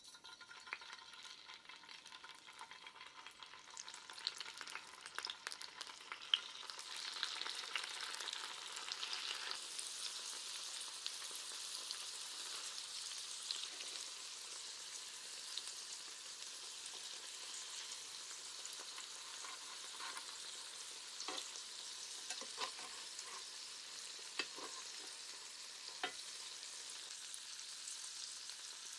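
Tofu stir-frying in a pan. The sizzle grows over the first several seconds and then holds steady, with occasional sharp clicks and scrapes of a utensil stirring it.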